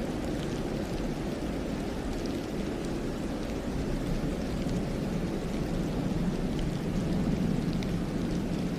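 Steady wind rushing through a snowy pine forest, a low even roar, with a few faint ticks scattered through it.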